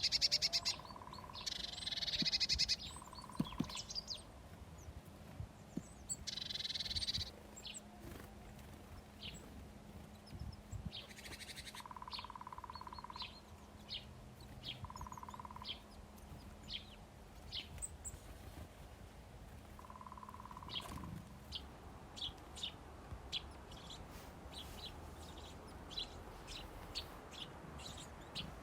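Small songbirds chirping and twittering: a few rapid warbling phrases early on, then many short, sharp high chirps, denser in the second half. Several brief steady tones of the same mid pitch sound now and then, and a faint low hum stops about two-thirds of the way through.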